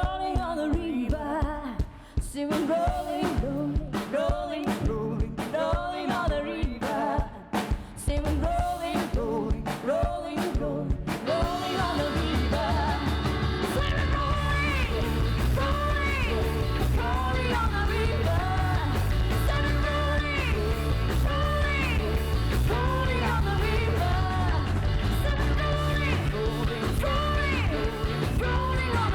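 Live rock band music with singing. The first eleven seconds or so are sparse, pitched lines that slide up and down with short gaps; then the full band comes in with a steady, heavy bass.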